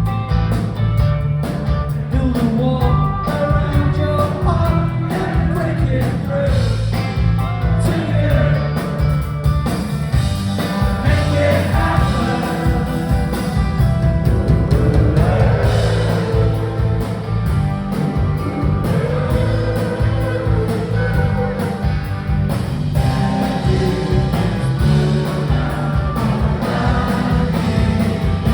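Live rock band playing with a lead singer over electric guitars, bass and drums, heard as a loud, continuous concert recording.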